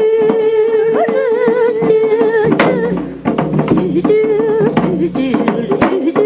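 Korean traditional music accompanying a gutgeori dance: a long held, wavering melodic line with sharp drum strokes marking the beat.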